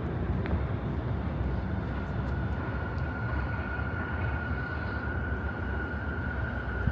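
Outdoor city background: a steady low rumble, with a thin steady high-pitched whine that comes in about two seconds in and holds.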